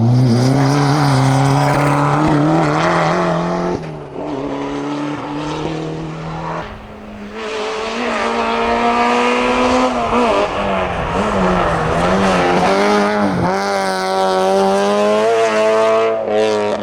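Hillclimb racing car engine at full throttle, its pitch climbing and dropping sharply several times as it shifts gear and lifts off.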